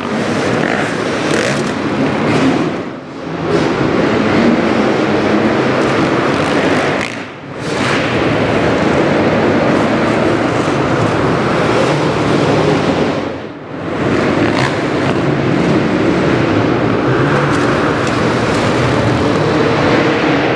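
Motocross motorcycle engine running hard, a loud, rough, noisy sound that drops off briefly three times before picking straight back up.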